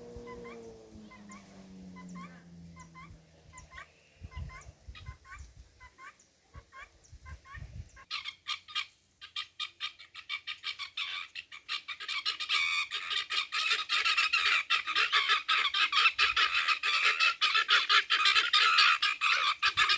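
Flock of helmeted guinea fowl calling: sparse repeated chirps at first, then from about eight seconds in a rapid, harsh chattering that builds and grows loud.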